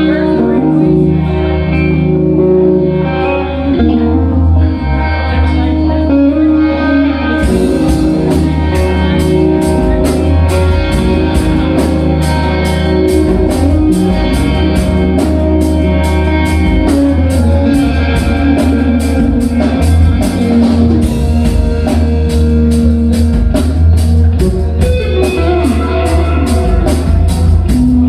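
Live psychedelic rock band playing loudly, with electric guitar and bass. About seven seconds in, a fast, even cymbal beat comes in over them and keeps going.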